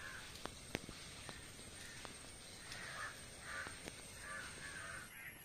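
Faint, harsh bird calls repeating about every half second to a second, with a few faint clicks scattered between them.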